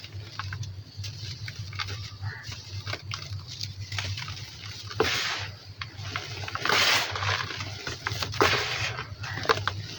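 Dry sand and small dusty chunks crumbling, with many small crackles and three louder gritty crumbles in the second half. A low steady hum runs underneath.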